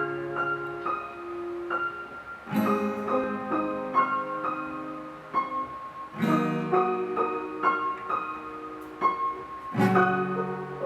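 Instrumental opening of a song: acoustic guitar strikes a full chord about every three and a half seconds, with single picked notes ringing in between, over a keyboard.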